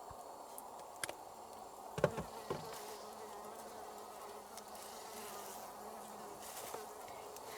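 A flying insect buzzing in a steady drone, with a few sharp knocks about a second and two seconds in.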